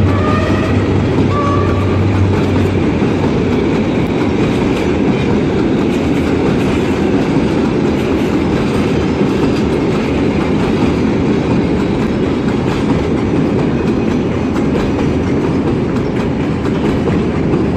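Passenger train hauled by a Henschel diesel locomotive rolling into a station, its coaches passing with a steady clickety-clack of wheels over rail joints. A horn note cuts off right at the start, with a short toot just over a second in, and the locomotive's low engine hum drops away about three seconds in.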